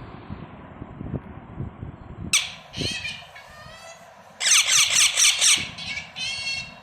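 Baby parrots chirping: after a couple of seconds of only faint low noise, a series of short, harsh calls breaks out. The calls are loudest and come fastest in a burst just past the middle.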